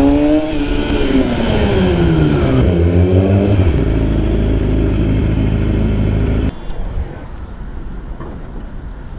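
Yamaha R6's inline-four engine revving, its pitch falling and rising, then settling into a steady low idle before cutting off suddenly about six and a half seconds in, leaving quieter outdoor background noise.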